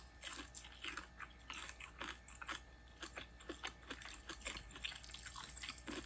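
A person chewing crunchy food close to the microphone: a run of short, irregular crunches.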